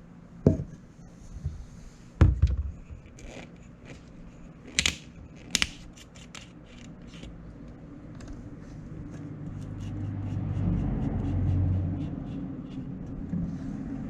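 Hand-tool work on a motorcycle during an oil change: a few sharp metal knocks, then a long run of quick light clicks, about three or four a second. A low rumble swells about ten seconds in and fades again near twelve.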